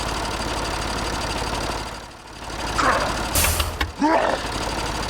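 Truck engine running steadily. In the second half come short squeaky sliding sounds and a brief hiss of about half a second, like an air brake.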